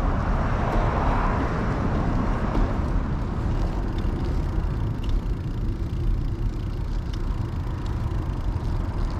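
Wind buffeting the microphone and road noise while riding a bicycle, a steady low rumble with a louder hiss in the first couple of seconds that then settles.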